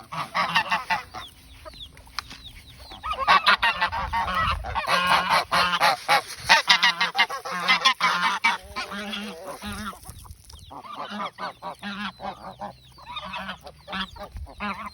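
Domestic geese honking repeatedly, with chickens calling among them: many overlapping calls, loudest from about three to eight seconds in, thinning out near the end.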